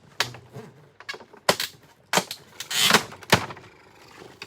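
Sharp clicks and knocks of hard plastic vacuum parts being handled and fitted: about five strikes, with a short scraping rattle just before the loudest one, about three seconds in.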